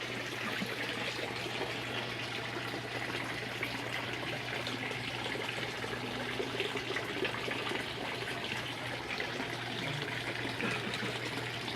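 Steady trickle of running water, with a constant low hum underneath.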